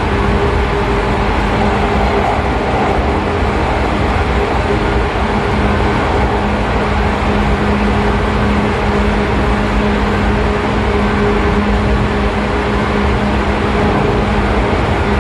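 Running noise of a JR 113 series electric train heard inside its motor car: a steady hum from the MT54 DC traction motors and gearing over the rumble of the DT21B bogies on the rails. Speed holds steady throughout.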